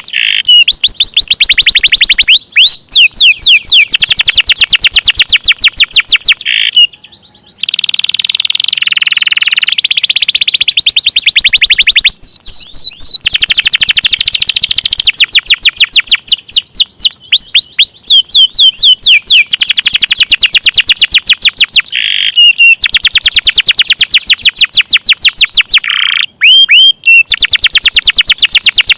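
Domestic canary singing long rolls: fast trills of rapidly repeated high notes, broken by short gliding phrases, with a brief pause about seven seconds in.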